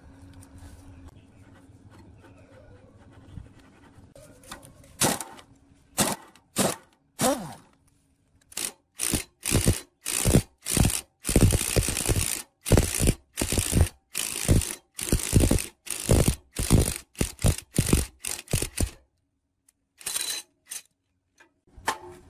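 Repeated hand scraping strokes on rusty metal, a few at first, then a fast run of about two strokes a second that stops suddenly about 19 seconds in, with a couple more near the end.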